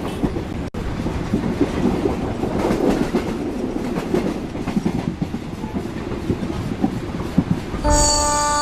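Train running past at a station, a steady rumble with the clickety-clack of wheels over rail joints. About a second before the end, an electric locomotive's horn starts and holds one steady tone.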